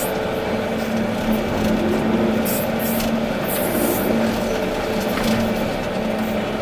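Volvo EC380D excavator's diesel engine running steadily with an even hum, with a few short hissing bursts over it.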